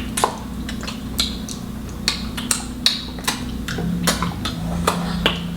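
Eating sounds of fufu with soup: scattered wet mouth clicks and chewing, with light clinks of a plate, over a steady low hum.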